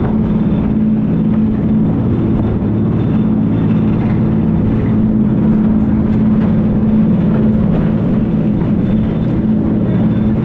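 Jet boat engine running steadily, a constant low drone with water and wind noise underneath.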